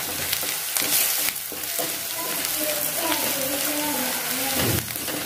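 Chopped onions, garlic and turmeric sizzling in hot mustard oil in a wok, stirred and scraped round the pan with a wooden spatula, the turmeric being fried until its raw taste is cooked off for a tadka.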